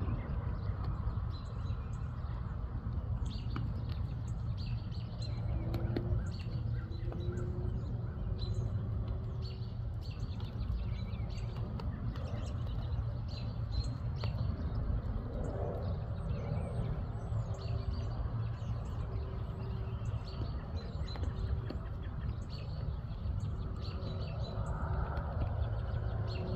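Small birds chirping and tweeting on and off throughout, over a steady low rumble of background noise.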